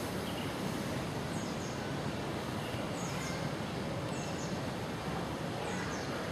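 Steady background rumble with a few short, high, falling bird chirps scattered through it.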